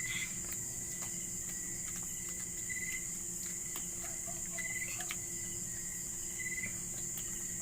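Insects trilling steadily at a high pitch, with short chirps and a low steady hum beneath, and scattered faint clicks.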